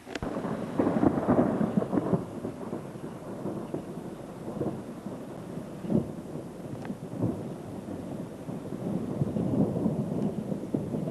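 A close clap of thunder: a sudden sharp crack, then a long crackling rumble that swells again about six seconds in and once more near the end.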